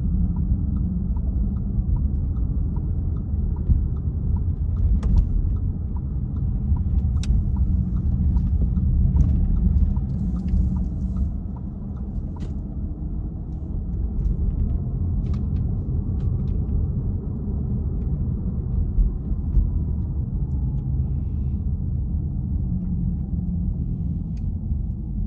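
A car driving, heard from inside: a steady low rumble of engine and road noise, with a light regular ticking during the first half.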